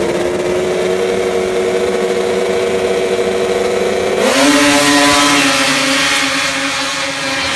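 Two-stroke snocross race snowmobile engines running at a steady high pitch. About four seconds in the pitch jumps up and the sound grows louder and harsher as the throttle opens.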